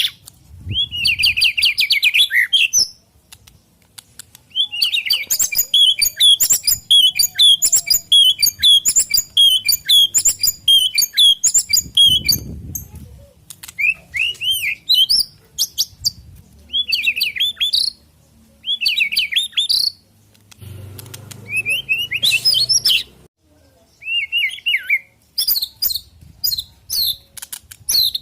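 White-rumped shama singing loud phrases of sharp whistled and chattering notes, broken by short pauses. A long run of rapid repeated notes fills the middle.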